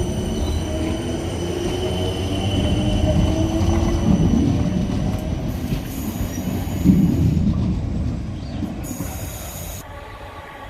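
Electric multiple-unit train running through with a heavy rumble of wheels on rail and a faint rising motor whine. The sound dies away over the last couple of seconds.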